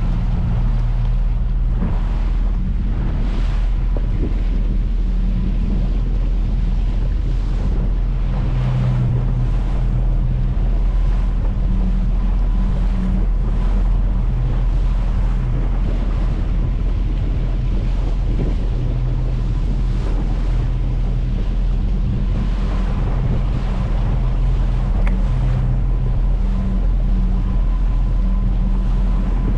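Small fishing boat's engine running steadily at sea, with wind buffeting the microphone and water washing against the hull.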